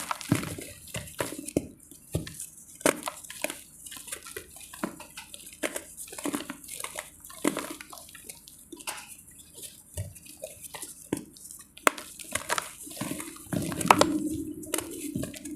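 Dry multani mitti (fuller's earth clay) crumbling and crunching in dense, irregular sharp crackles, with a steadier low rustle joining in near the end.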